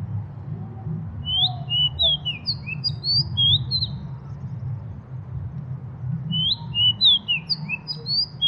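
A bird singing a quick phrase of about ten short, high chirps and whistles. The same phrase comes again about five seconds later, over a steady low rumble.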